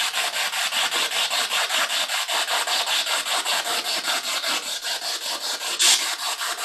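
Spirit box radio scanner sweeping through stations: a steady hiss of radio static chopped into rapid even pulses about eight times a second, with one louder burst of noise near the end.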